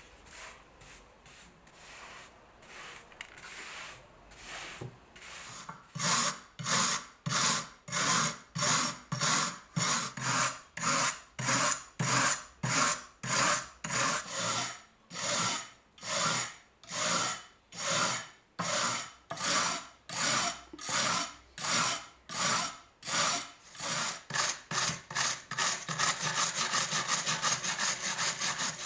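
Rhythmic hand-worked abrasive strokes on the rusty steel of a G98 Mauser bayonet, rust being scrubbed off, at a little under two strokes a second. Light strokes at first, much louder from about six seconds in, quickening near the end and stopping suddenly.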